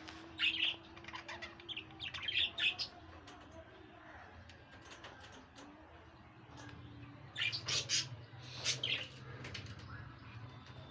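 Pet birds in a cage chirping in short, high clusters: a few near the start, more about two seconds in, and a louder group about seven to nine seconds in, over a steady low hum.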